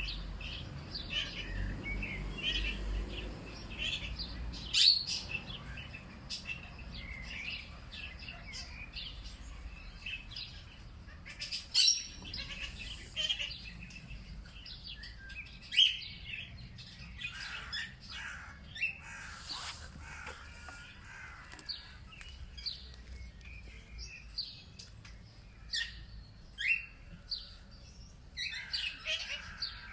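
Several wild birds chirping and calling in short, scattered chirps, a few of them louder, over a faint low rumble.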